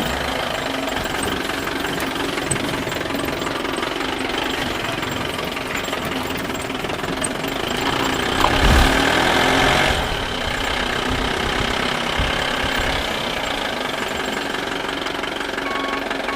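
A backhoe loader's engine running steadily, with a louder, noisier stretch of about two seconds just past the middle.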